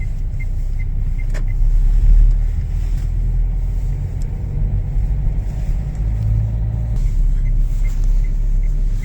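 Steady low road and engine rumble heard inside a moving car's cabin. A faint regular ticking comes in near the start and again near the end.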